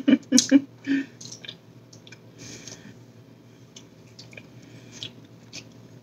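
A person chewing a mouthful of bacon cheeseburger: soft, wet chewing with small clicks of the mouth. There are a few short bits of voice in the first second.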